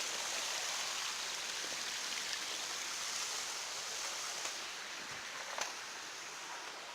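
Steady rush of a jungle hill stream's flowing water, easing a little after the middle, with a couple of faint light clicks.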